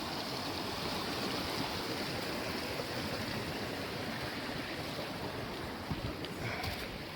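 A stream rushing steadily over rocks.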